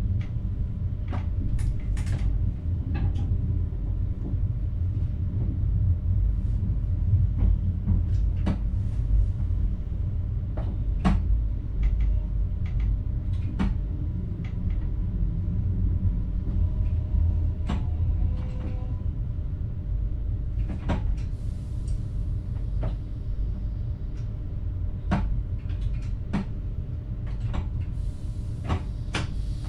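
A train heard from inside the driver's cab: a steady low rumble with irregular sharp clicks and knocks throughout, and a faint hiss near the end.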